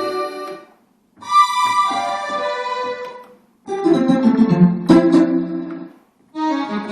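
Roland D-50 synthesizer playing a factory patch: a series of full, held chords, each dying away into a brief silence before the next is struck, with a sharp attack on one chord about five seconds in.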